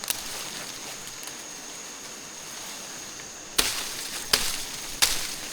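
Three sharp knocks or strikes, about 0.7 s apart, starting a little past halfway. Before them a thin, steady high-pitched whine sounds, which cuts off just as the first strike lands.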